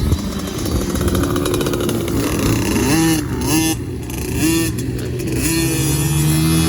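Cobra youth dirt bike's two-stroke engine revving, its pitch rising and falling several times.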